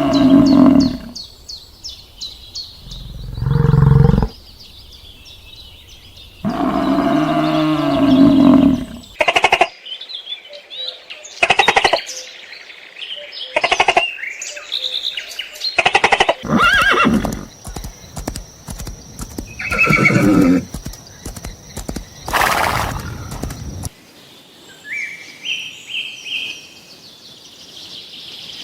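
Farm animals calling: two long, wavering calls a few seconds apart, then a run of sharp clicks and short calls, with faint chirping near the end.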